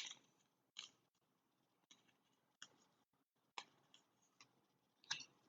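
Faint, scattered clicks and light rustles of trading cards being handled and flipped through, a few short ticks about a second apart over near silence.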